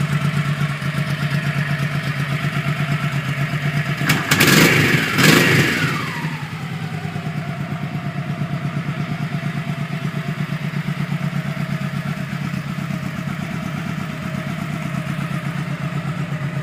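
2001 Honda Shadow 1100 Saber's carbureted 1100cc V-twin idling with an even, steady pulse. It is blipped twice about four to five seconds in, and the revs fall back to idle.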